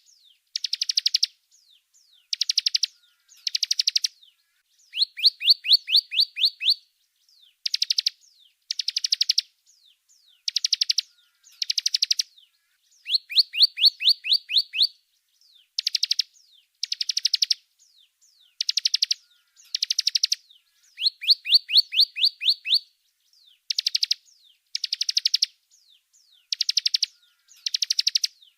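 Songbird calls from a masteran training recording: short, high, rapid buzzy trills repeated every second or two. They alternate between a dense buzzing burst and a run of quick rising chirps, with brief silences between phrases.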